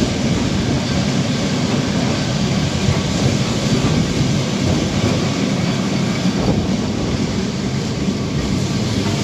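Lisbon Tram 28's vintage electric tram running on its rails, a steady mix of wheel-on-rail noise and car rattle.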